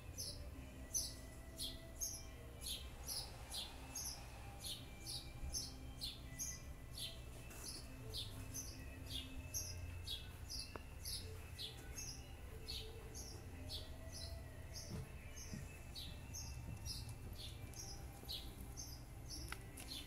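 A small bird chirping over and over, short high downward chirps about twice a second, with a faint low rumble behind.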